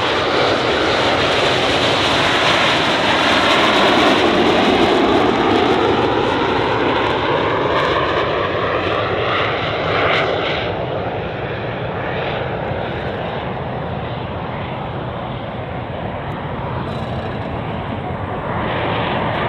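Canadair CT-114 Tutor jets of the Snowbirds flying overhead. A loud, steady jet noise with a sweeping pitch through the first half eases slightly after about ten seconds but carries on.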